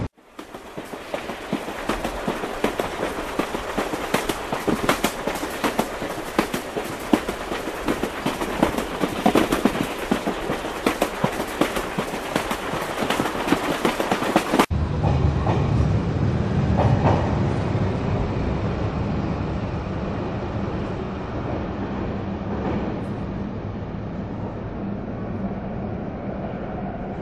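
Train running on the rails, heard as a railway carriage in motion: a dense clatter for the first half, then an abrupt cut to a deeper, steadier rumble that slowly fades.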